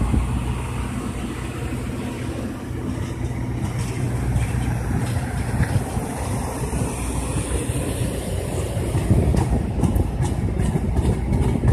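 Metra bilevel commuter passenger cars rolling past on the tracks as the train departs: a steady low rumble of steel wheels on rail, with a run of clicks from the wheels near the end.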